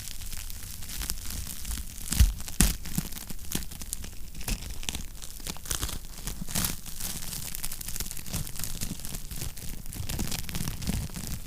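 Wood fire crackling and popping, a dense run of small snaps with a couple of louder pops about two seconds in, over a low steady rumble of the burning fire.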